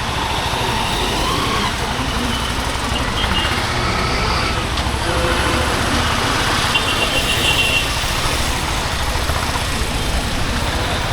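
Honda H'Ness CB350's single-cylinder engine and exhaust running steadily, with road and traffic noise around it.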